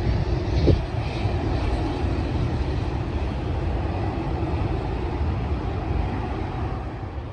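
Airliner's jet engines running with a steady, heavy roar and low rumble that eases off near the end. There is a brief thump just under a second in.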